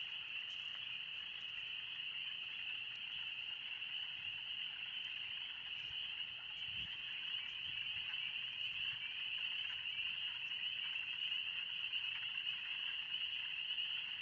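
A dense chorus of spring peepers: countless high peeping calls overlapping into one steady, shrill, deafening din.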